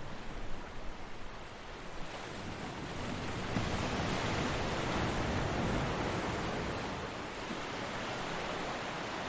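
Ocean surf washing onto a beach, a steady rush of water that swells as a wave breaks about three and a half seconds in and then slowly eases off.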